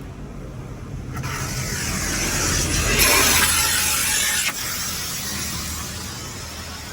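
High-pressure water jets of a Laserwash G5 touchless car wash spraying the car during the rinse, heard from inside the cabin: a rushing spray that builds about a second in, is loudest around the middle, then drops off sharply and tapers away, over a steady low hum.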